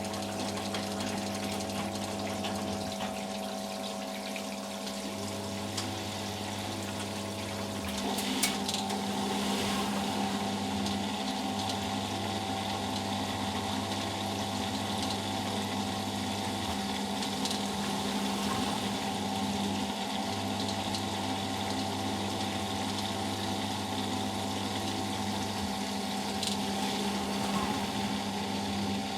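Eudora Sparmeister 702 Classic washing machine's drain pump humming as it pumps out the softener-rinse water, with a motor hum cutting in and out every few seconds. About eight seconds in a click sounds and the machine grows a little louder as it moves into the final spin.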